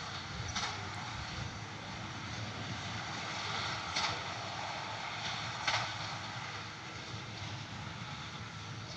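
A tractor's engine running steadily as it pulls a straw baler through the field, heard from a distance, with three short sharp clicks.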